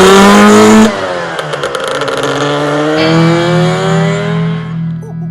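Lambretta Targa Twin scooter's two-stroke engine accelerating, pitch climbing; it cuts off sharply about a second in, then is heard again climbing more slowly before fading near the end, with a steady low hum joining about three seconds in.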